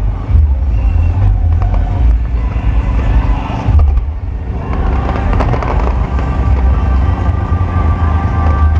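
Fireworks display going off as a continuous low rumble of bursts, with few sharp cracks. Music plays underneath in the second half.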